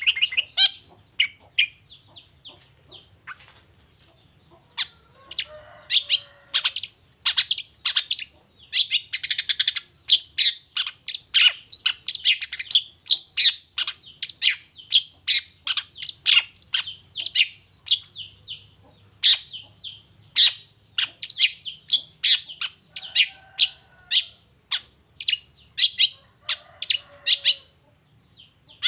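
Long-tailed shrike (cendet) singing a fast, unbroken run of short, sharp chirping notes, with three lower, harsher rasping phrases mixed in.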